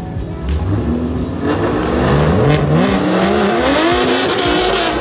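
The 2008 BMW 135i's single-turbo N54 3.0-litre straight-six revving at the drag strip starting line. It runs steadily at first, then from about a second and a half in the revs climb and waver, held high for the launch.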